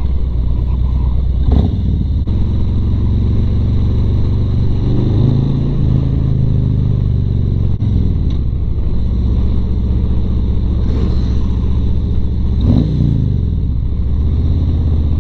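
Harley-Davidson Road Glide Standard's V-twin engine running under way, heard from the rider's lavalier mic with little wind noise. The engine pitch shifts a few times, dipping briefly about halfway through and dropping then climbing again near the end.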